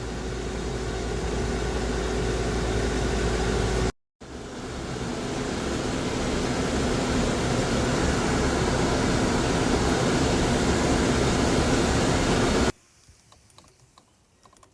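Steady rushing noise with a low rumble, cut off abruptly about four seconds in and again about two seconds before the end, followed by near silence.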